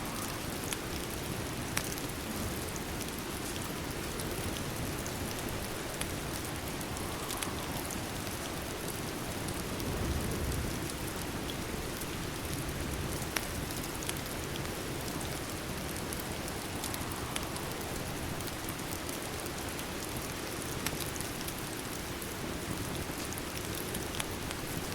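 Steady rain, with sparse sharp crackles of a fireplace mixed in and a soft low rumble about ten seconds in.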